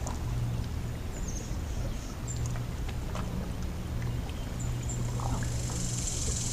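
A boat motor hums steadily and low, with a few faint knocks and brief high chirps over it. A high, hissing buzz swells near the end.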